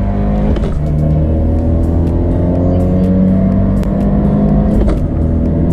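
Abarth 124 Spider's tuned 1.4-litre MultiAir turbocharged four-cylinder pulling at full throttle through a Ragazzon valved axle-back exhaust, a steady high-rpm engine note whose pitch creeps up as the car accelerates, with a brief break about half a second in.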